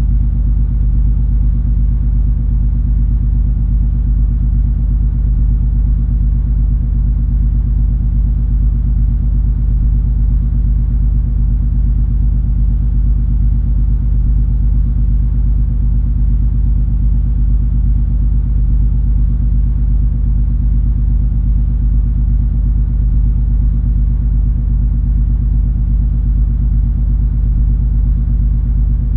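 Cruise ferry MS Color Magic under way: a steady deep rumble with a constant low hum of several tones, unchanging throughout.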